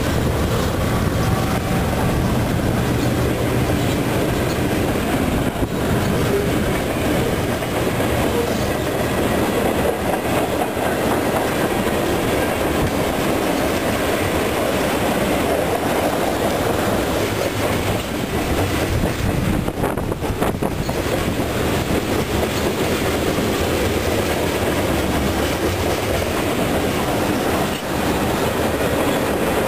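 A freight train of tank cars rolling past at close range, its steel wheels running on the rails with a loud, steady rumble.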